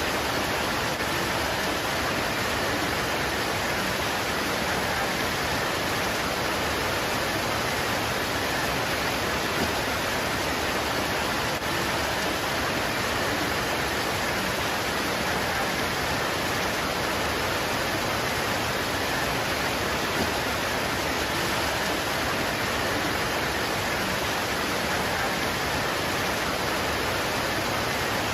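Steady heavy rain pouring onto leaves, an even unbroken hiss.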